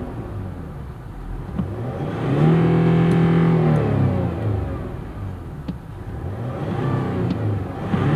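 Land Rover Discovery 4 engine heard from inside the cabin, revving up, holding briefly and dropping back, then starting to rise again near the end.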